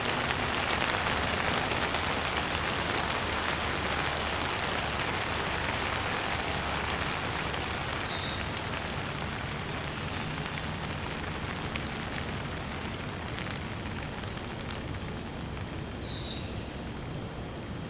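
Steady rain falling: a dense, even hiss that eases slightly over time. A brief high chirp comes twice, about eight seconds apart.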